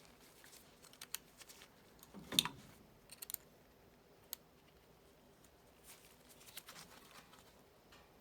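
Scattered light clicks and taps of tools and small metal parts being handled while fitting a circulator pump's coupler and set screw, with one louder clink about two and a half seconds in.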